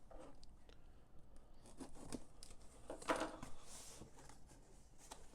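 Cardboard product box being opened by hand: faint tearing and rustling of the flaps and packaging, with scattered small clicks and a louder rustle about three seconds in.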